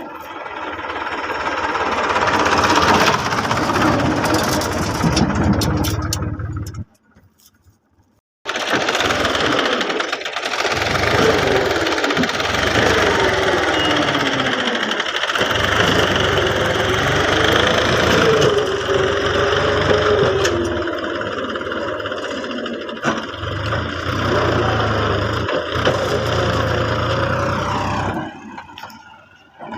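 Diesel tractor engine running hard, its pitch wavering up and down as the revs change. It cuts out abruptly for about a second and a half about seven seconds in, then runs on.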